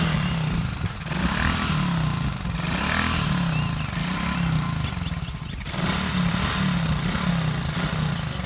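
Small off-road vehicle engine running unevenly at low revs, its pitch wavering up and down, with a brief drop about five seconds in.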